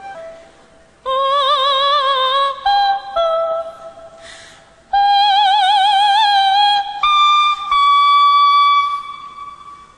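Soprano singing long, high held notes with a wide vibrato, climbing step by step over three sustained notes. A quick breath is audible between the phrases.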